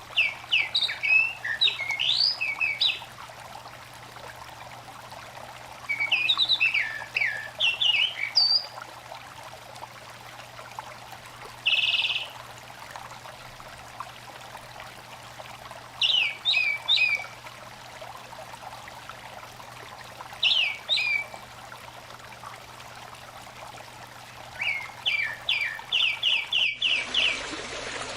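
A songbird sings short phrases of quick, sliding whistled notes every few seconds, ending with a rapid run of evenly repeated notes. Underneath is the steady rush of a small stream, which turns abruptly louder near the end.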